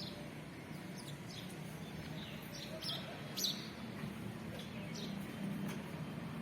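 Small birds chirping: a dozen or so short, high chirps scattered irregularly over a low, steady background.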